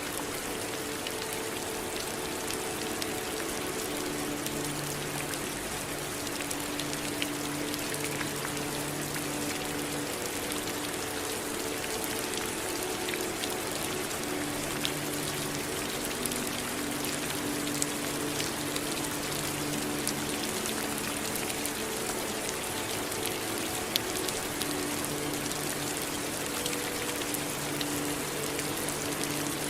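Steady rain falling, an even hiss with scattered sharp ticks of individual drops striking a surface. Underneath, a faint low drone fades in and out.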